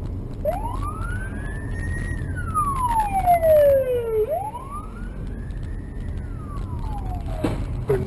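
Emergency vehicle siren sounding a slow wail, its pitch rising and falling twice, over a steady low rumble of road and engine noise.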